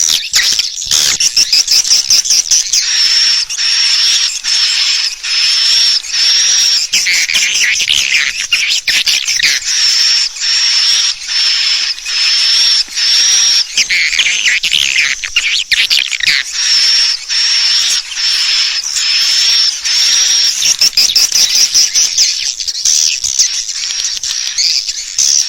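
Edible-nest swiftlet lure call: high chirps repeating about every half second to second over a dense stream of clicks and twittering. It is the call played to draw swiftlets into a nesting house to roost.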